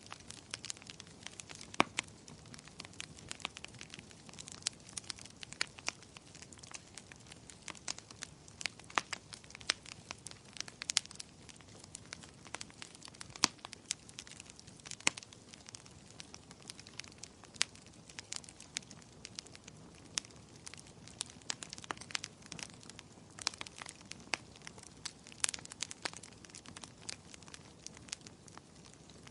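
Wood fire burning in a fireplace, crackling and popping irregularly over a low steady hiss of the flames.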